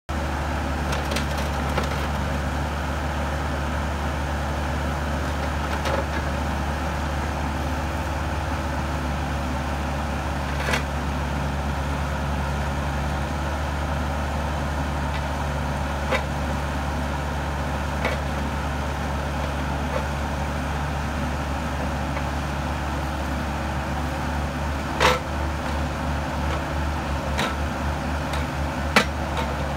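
Bobcat E26 compact excavator's diesel engine running steadily, with scattered sharp clanks and knocks, several of them near the end.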